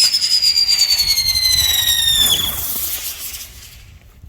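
A firework going off suddenly with a loud, high whistle that slides slowly down in pitch for about two seconds over a rushing hiss. The whistle cuts off and the hiss dies away.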